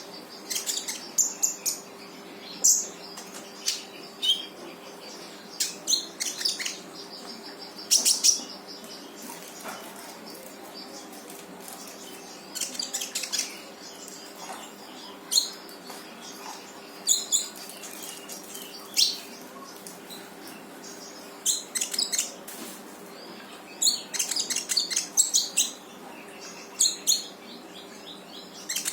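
Konin songbird in full song: short, sharp, high calls in quick bursts every second or two, over a faint steady hum. It is the lively 'gacor' song used to provoke quiet konins into answering.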